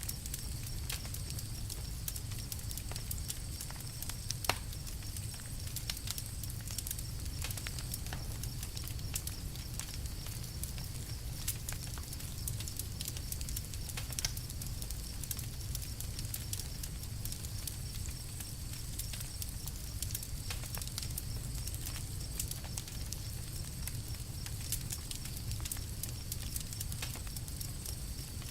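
Campfire crackling: scattered sharp pops and snaps, a few louder than the rest, over a steady low rumble.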